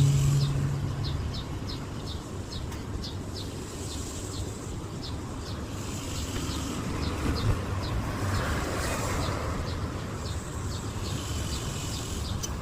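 Small birds chirping: short, high chirps repeated about twice a second, over a steady low background rumble.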